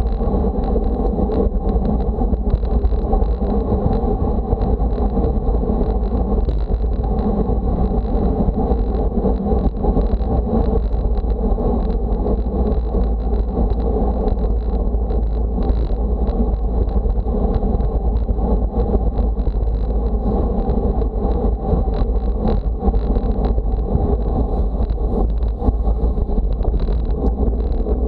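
Steady wind rushing over the microphone with a constant deep rumble, the sound of riding at speed in a strong wind.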